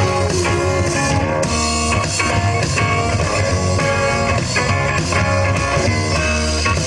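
A live rock band playing loudly: guitars over a drum kit, with a steady beat.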